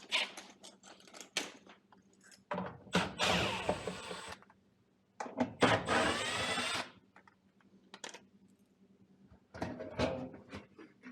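Power drill run in two short bursts of a second or two each, its whine climbing in pitch, amid knocks and clatter from handling tools and panels at an HVAC unit.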